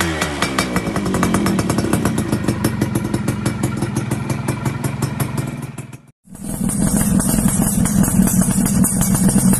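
Two-stroke underbone motorcycles running through aftermarket TNX racing exhausts, with a fast, even pulsing. Just after six seconds the sound drops out for a moment, and then a second engine comes in running steadily with a sharper hiss on top.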